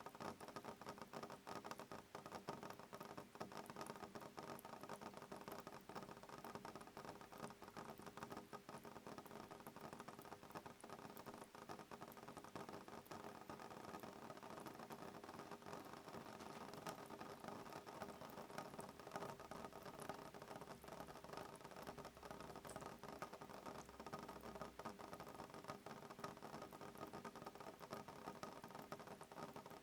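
Soft rain falling on a window pane: a steady, faint patter of many small drop ticks, with no thunder.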